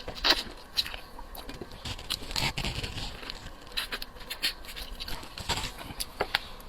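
Close-miked eating sounds of seafood being chewed and pulled apart: an irregular run of wet clicks, smacks and crackles.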